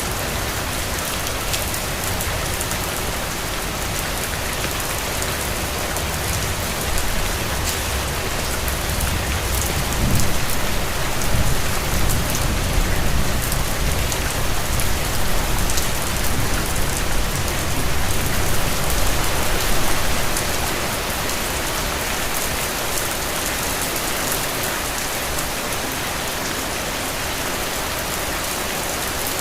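Steady rain falling on a surface, an even hiss. A low rumble swells under it through the middle for about a dozen seconds, then fades back.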